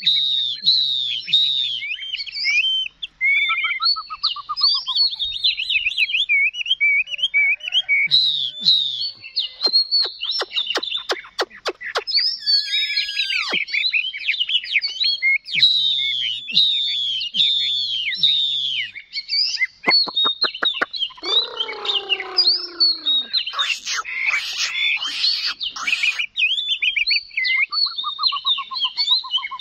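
Chinese hwamei (melodious laughingthrush) singing a loud, continuous, varied song of rapid whistled phrases, many repeated several times, broken by runs of sharp clicking notes and a few harsher, falling calls.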